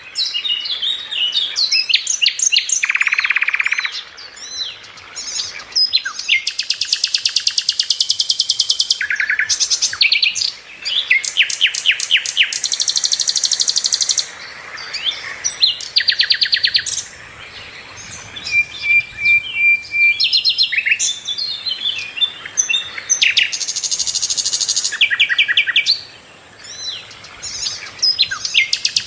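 Sikatan londo flycatcher singing continuously in full voice: a dense run of high, varied chirps and rapid buzzing trills, broken by short pauses.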